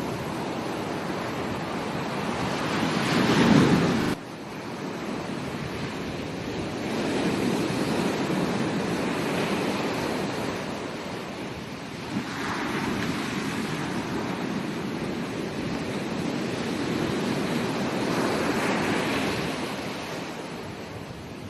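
Ocean waves breaking and washing on a beach, the surf swelling and fading several times. The loudest wave is about three and a half seconds in and cuts off suddenly just after four seconds.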